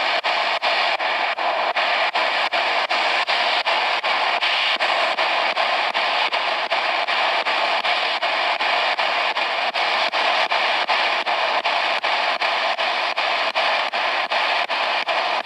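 Spirit box radio sweeping through stations: a steady hiss of static, chopped by brief gaps about three times a second as it hops from channel to channel.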